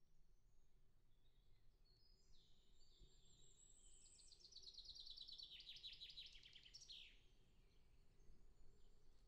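Faint bird song: a high trill of rapid repeated notes, lasting a few seconds and ending in a quick falling note. A faint low outdoor rumble runs underneath.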